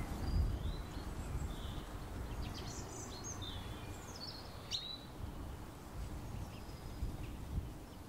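Garden birds singing and calling in scattered short chirps and whistles, busiest in the middle, over a steady low background rumble.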